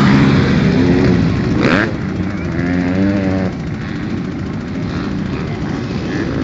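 Motorcycle engines running and revving, their pitch wavering up and down, with a brief hiss a little under two seconds in. The sound gets quieter after about two seconds, and again halfway through.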